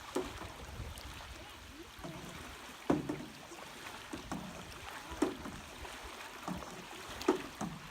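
Paddle strokes dipping into floodwater from a small jon boat being paddled across, a short splash about every two seconds over a soft watery wash.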